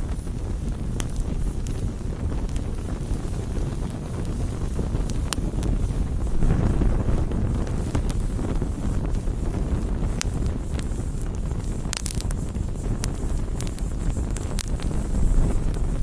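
Wood campfire burning: a steady low rush of flame with scattered sharp crackles and pops, including a quick cluster of pops about twelve seconds in.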